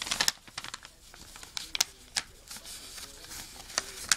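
A square sheet of origami paper being folded and creased by hand, crackling and snapping irregularly as the flaps are pressed flat. The sharpest snaps come just after the start and again near the end.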